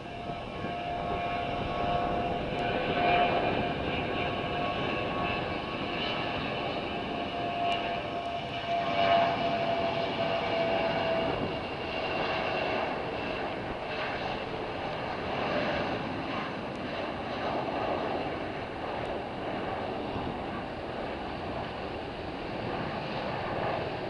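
Jet airliner engines running: a steady roar with a high whine that drops a little in pitch about halfway through.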